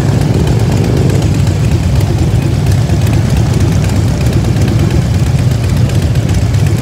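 Motorcycle engine idling steadily in stop-and-go traffic, a low, even sound that holds the same pitch and level throughout.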